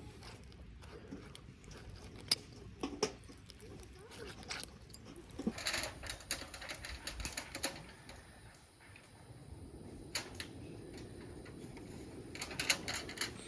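Wood campfire crackling: irregular sharp pops and snaps, thickening into denser bouts of crackling twice.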